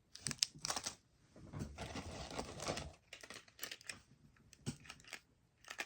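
Plastic snack and candy wrappers crinkling and rustling as packets are handled, with a longer rustle in the middle and scattered light clicks and taps near the end.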